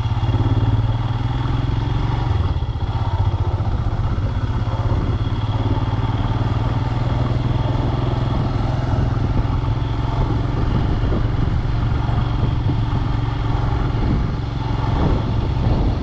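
Royal Enfield Himalayan's single-cylinder engine running steadily while the motorcycle is ridden at an even pace.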